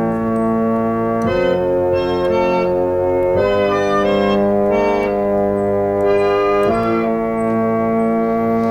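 Instrumental music: held organ chords, changing to new chords about a second in, again after three seconds and again near seven seconds.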